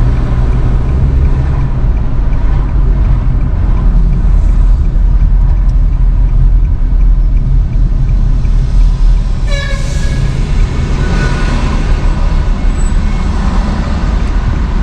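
Steady low rumble of a moving vehicle's engine and road noise, heard from on board, with a brief high-pitched tone about ten seconds in.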